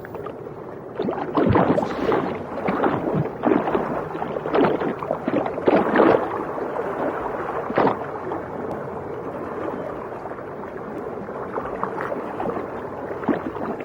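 Underwater water noise: irregular swirling and gurgling that swells and fades, with a few short sharp ticks.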